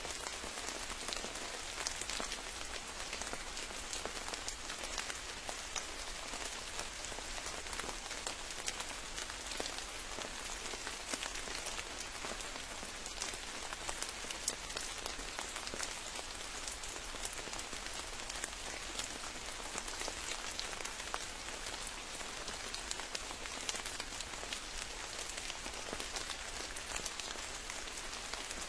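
Steady rain falling in a forest, with many individual drops pattering close by on a surface.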